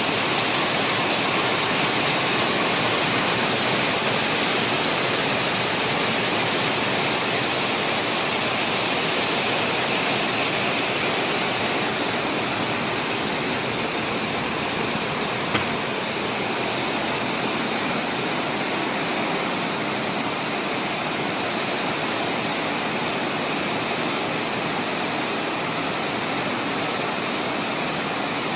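Steady hiss of storm rain falling, even throughout, easing slightly in its higher tones about twelve seconds in. A single brief click comes about halfway through.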